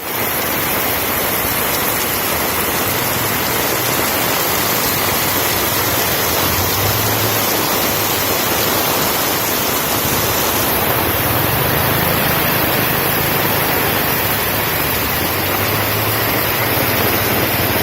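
Heavy rain pouring steadily, a loud, even hiss that does not let up.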